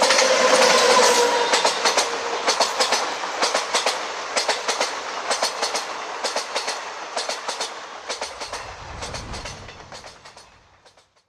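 A train passing on Indian Railways track: a horn sounds briefly at the start, then the wheels clatter over the rail joints in regular groups of clicks. The sound fades steadily as the train moves away.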